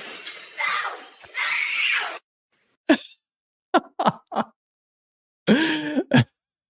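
A dense crashing, clattering noise cuts off suddenly about two seconds in. It is followed by a run of short vocal sounds, like gasps or grunts, with silence between them, one a little longer near the end.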